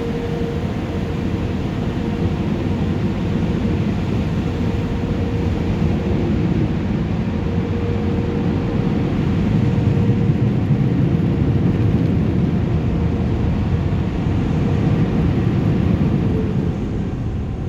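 The machinery of an automatic tunnel car wash, heard from inside the truck's cab: a loud, steady rushing noise with a faint whine, swelling a little louder in the second half and easing right at the end.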